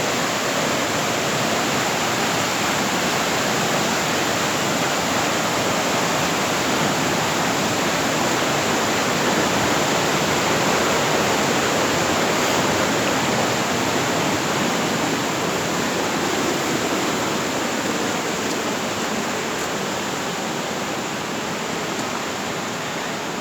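Fast-flowing river water rushing steadily, easing slightly near the end.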